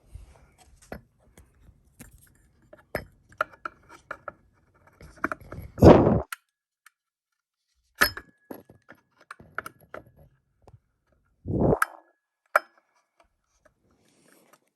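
Scattered small metal clicks and clinks of a screwdriver, screws and fan-mounting hardware, with two heavier thumps, the louder about six seconds in and another near twelve seconds.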